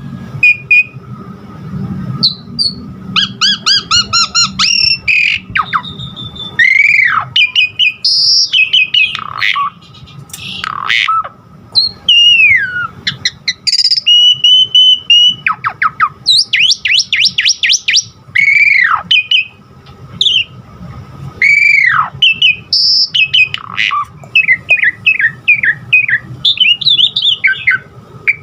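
Asian pied starling (jalak suren) in full song: a varied stream of loud whistles, long down-slurred calls and bursts of fast repeated chattering notes, laced with mimicked phrases of other birds.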